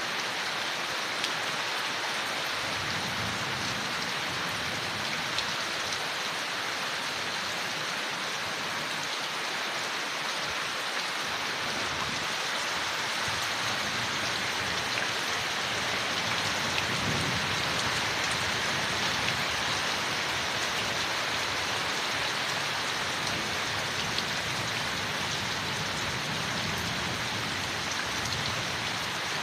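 Steady rain falling on leaves, a constant even hiss with scattered drop ticks and a brief low swell a little past halfway.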